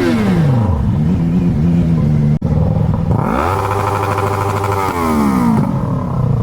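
Motorcycle engines being revved. One rev falls back to idle within the first second. About three seconds in, another rev climbs, holds high for about two seconds, then drops back to idle.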